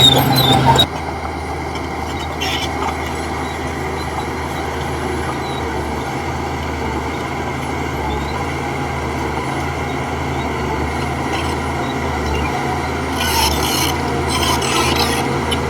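Heavy diesel machine engine running steadily, louder for the first second and then dropping, with short bouts of high metal scraping and squealing.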